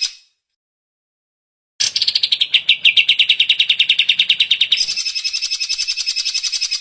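Cucak ijo (green leafbird) singing in rapid, evenly repeated trills. The first trill starts about two seconds in and dips slightly in pitch at its start. About five seconds in it switches to a higher trill, which stops abruptly at the end.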